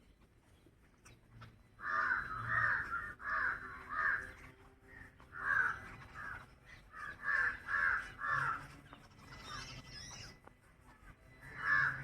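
Crows cawing in a run of short, harsh calls that start about two seconds in, with fainter high bird calls later and one more caw near the end.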